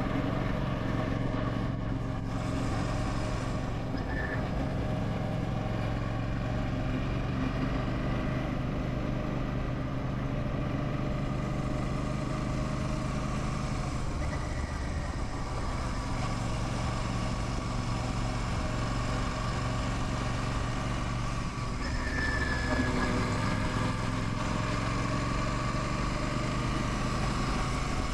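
Royal Enfield Classic 650's 648 cc parallel-twin engine running at a steady pace under way, with a brief change in the engine note about three-quarters of the way through.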